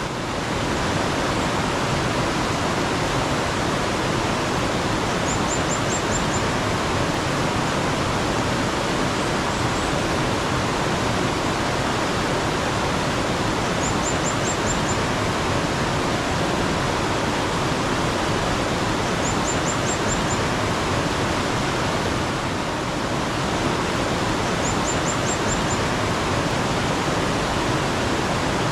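Steady rushing of flowing mountain stream water. A bird's short, high run of about five quick notes sounds four times over it.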